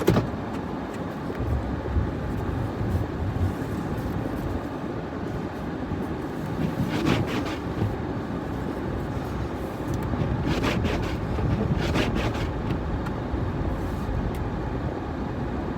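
Truck running, heard from inside the cab: a steady rumble and hiss, with a few short knocks or scrapes around the middle.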